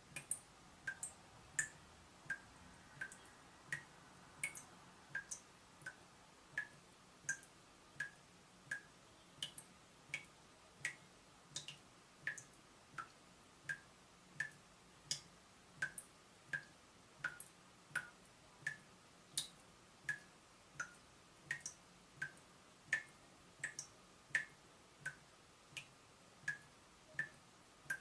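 Water dripping from a leaking tap: single drops falling in a steady rhythm of about one every three-quarters of a second, each a short plink.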